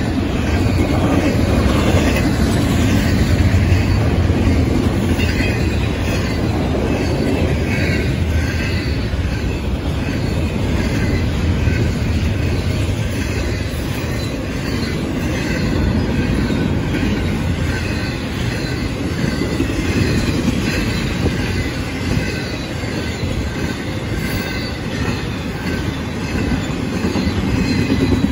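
Double-stack intermodal freight cars rolling past at speed: a steady rumble of steel wheels on rail with clickety-clack over the rail joints.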